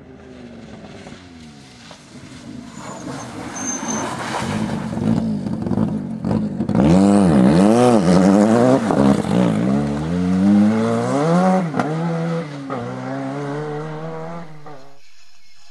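Rally car engine at full throttle, approaching and passing, revs dropping and climbing again and again with throttle lifts and gear changes. It builds up, is loudest in the middle, then fades and cuts off abruptly near the end.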